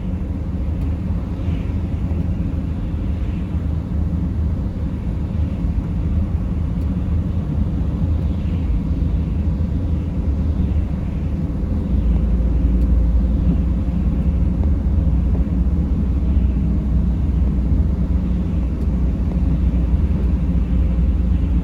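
Car driving, heard from the driver's seat: a steady low rumble of engine and road noise, which grows louder about halfway through.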